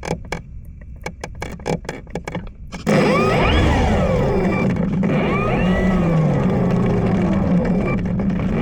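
Wind buffeting the microphone with crackling clicks, then about three seconds in the electric motor and propeller of an E-flite Draco RC plane come in loud, a whine whose pitch slides up and down.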